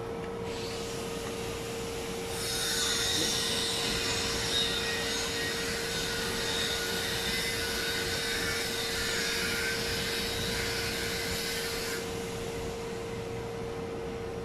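DeWalt electric drill's brushed motor running for about ten seconds: a high whine and hiss that gets going softly, runs steadily from about two seconds in, and stops about twelve seconds in.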